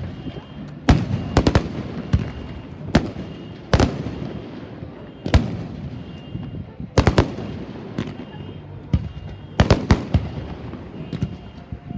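Fireworks display: about a dozen sharp bangs from aerial shells bursting at irregular intervals, some in quick pairs, over a continuous low rumble.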